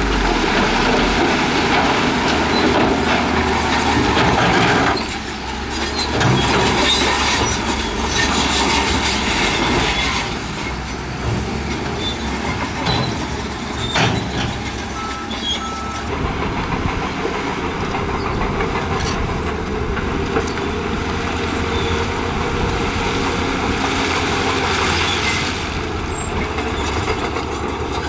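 Shantui bulldozer at work: its diesel engine running under load while the steel crawler tracks clank and rock and soil grind along in front of the blade. A continuous, loud clatter with a short dip about five seconds in.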